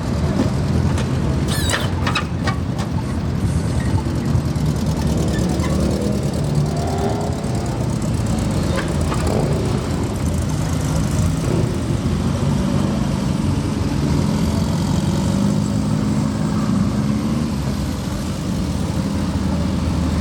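Car engines running at low speed, a steady low rumble, with one engine revving up briefly about seven seconds in.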